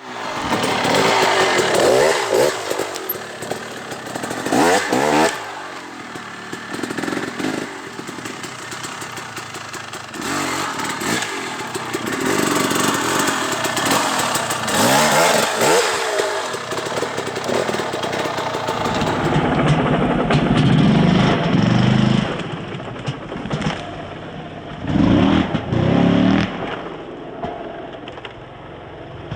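KTM 300 XC-W two-stroke single-cylinder dirt bike engine revving in repeated surges, its pitch rising and falling, as the bike is ridden over logs.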